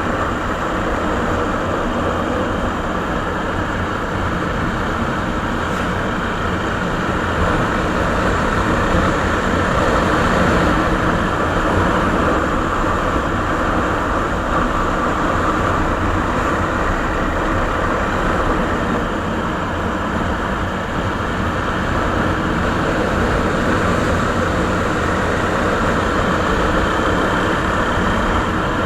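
Suzuki Savage (Boulevard S40) motorcycle's single-cylinder engine running steadily through its original exhaust, with no clear revs up or down.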